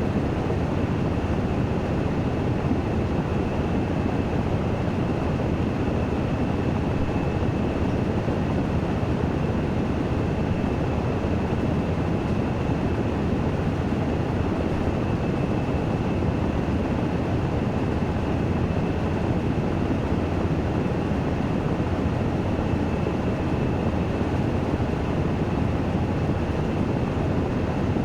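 Washing machine running its spin (dehydration) cycle: a steady whirring rumble with a thin, steady high whine above it, unchanging throughout.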